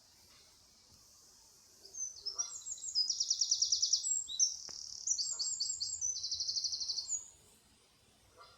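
A small songbird singing a loud, high-pitched song of fast trills and twittering notes, starting about two seconds in and lasting about five seconds.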